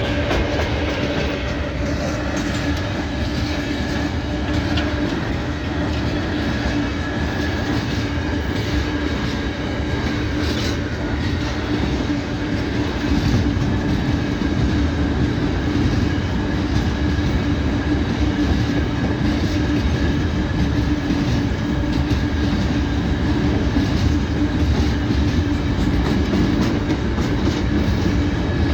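Train running on the rails: a steady rumble of wheels on track with a constant hum over it, growing a little louder about halfway through.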